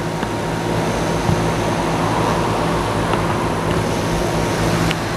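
Outdoor heat pump units running in heating mode: a steady compressor hum under the noise of the outdoor fans.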